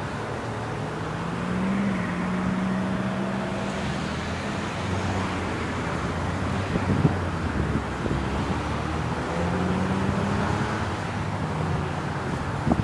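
GO Transit commuter train's diesel locomotive running past with a steady low engine drone and rumble that swells twice.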